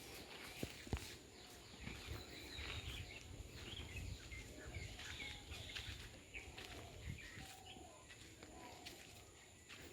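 Faint birds chirping over a low background rumble, with two sharp knocks in the first second.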